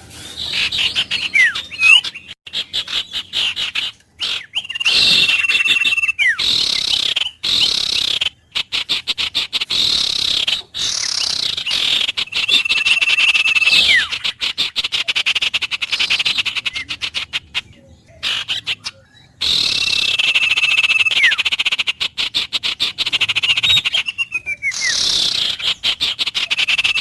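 Birds calling over a fast, pulsing chorus of chirps. A held whistle with downward-sliding notes comes back about every seven seconds.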